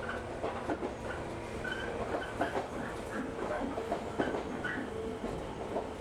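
Train running, heard from inside the carriage: a steady rumble of wheels on track with irregular clicks and rattles and brief faint squeals.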